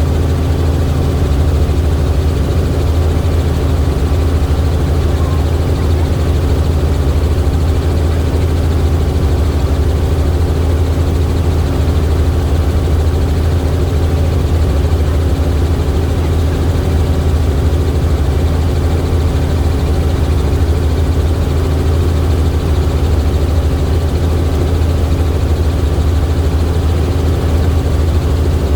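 Helicopter in flight: the rotor and engine give a loud, steady drone, heaviest in the deep low end.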